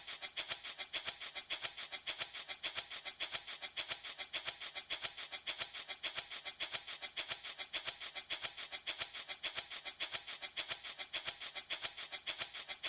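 Handmade wooden baby rattle shaken in a steady, even rhythm, a bright rattling of small pellets with each shake.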